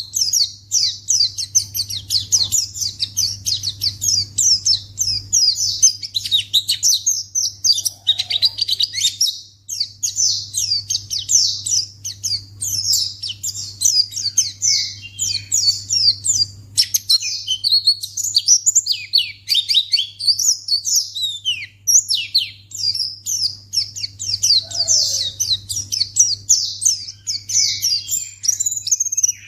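White-eye (pleci) song: a continuous, fast stream of high twittering chirps, each note a quick downward slur, with barely a pause. A faint steady low hum lies underneath.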